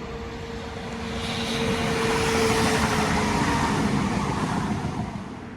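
Diesel passenger train passing close by, its noise swelling to a peak about two seconds in and then fading, with a steady engine tone that drops slightly in pitch as it goes past.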